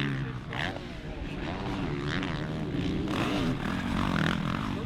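Motocross dirt bike engines revving, their pitch rising and falling again and again as the bikes race.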